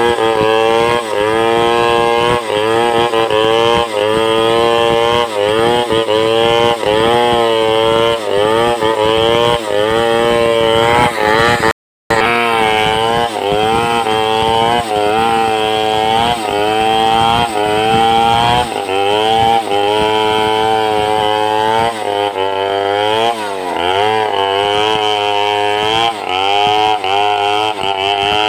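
Two-stroke chainsaw ripping a log lengthwise into boards, its engine pitch dipping and rising again and again as the cut loads it. There is a brief dropout about twelve seconds in.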